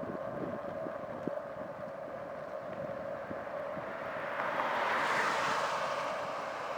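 Road and wind noise while riding, with a steady hum and small knocks. About four seconds in, a louder rush of noise swells up, then eases off near the end.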